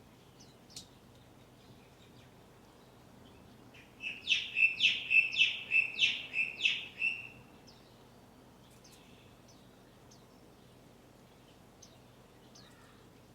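A small songbird gives a quick run of about eight sharp, falling chirps lasting some three seconds, starting about four seconds in. A few faint high chirps and ticks come before and after it.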